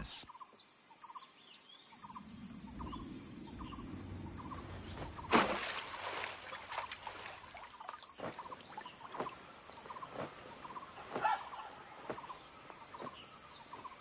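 Birds calling in short, repeated notes around a swamp over a low background rumble, with one loud sudden burst of sound about five seconds in.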